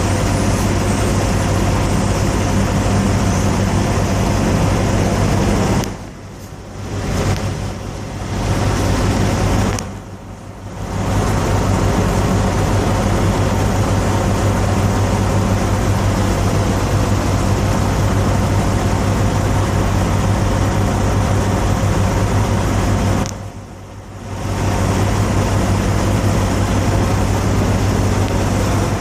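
Steady low drone of an idling diesel truck engine. It dips away briefly three times.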